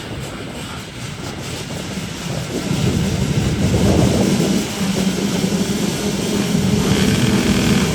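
Motocross bike engines running hard at high revs, getting louder about three seconds in and then holding a steady, loud pitch.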